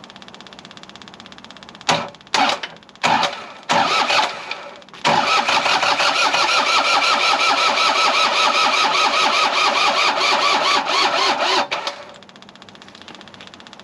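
Takeuchi excavator's diesel engine being turned over by its starter: a few short bumps of the starter, then about seven seconds of steady, evenly pulsing cranking that stops abruptly near the end. The owner suspects a weak battery. A faint steady ticking from the newly fitted electric fuel pump runs underneath.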